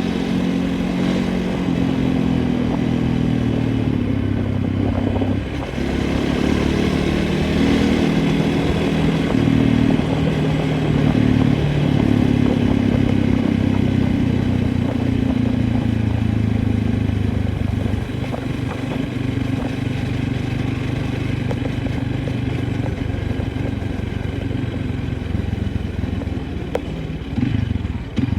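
A small engine running continuously, its pitch and speed rising and falling, with some rattling.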